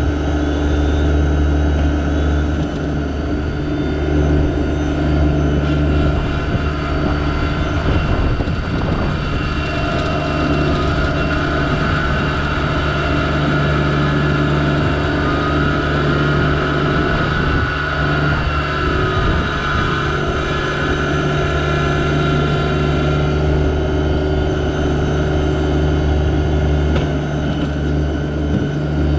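Yanmar SA324 compact tractor's three-cylinder diesel engine running steadily under load while clearing snow, with a higher whine that rises and falls in the middle.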